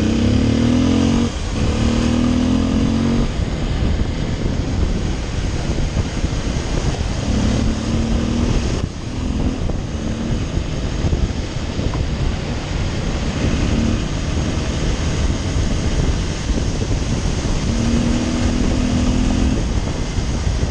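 Motorcycle engine pulling hard while riding, under steady heavy wind noise. The engine note climbs in pitch over the first few seconds, then surges briefly again several times.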